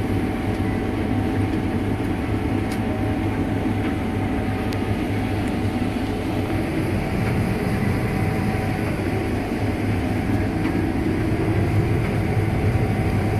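Combine harvester running steadily while harvesting beans: a constant low engine drone with a deep steady hum and a thin steady tone above it.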